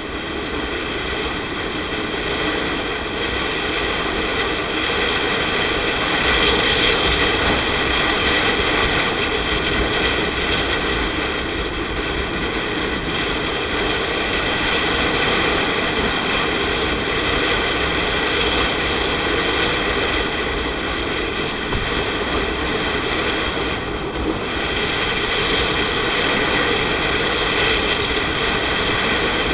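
Motorcycle riding along at a steady speed: the engine runs under a constant rush of wind and road noise, easing off briefly about four-fifths of the way through.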